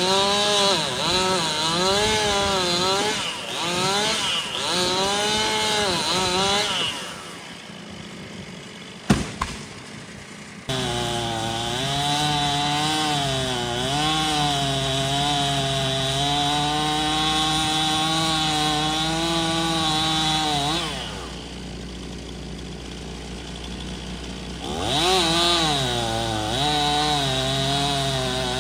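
Two-stroke chainsaw cutting, its engine pitch rising and falling under load. It eases off twice, about 7 and about 21 seconds in, then revs up again. A single sharp knock comes about 9 seconds in.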